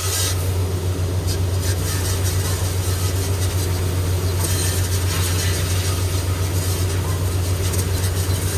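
A machine running with a loud, steady low hum, which starts suddenly just before and cuts off suddenly just after.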